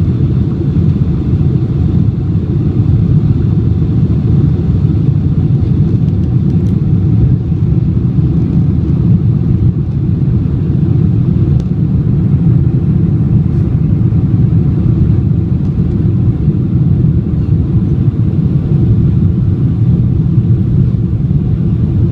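Steady low rumble inside the passenger cabin of a Boeing 747-400 during its takeoff: its four turbofan engines and the rushing airflow, heard through the fuselage.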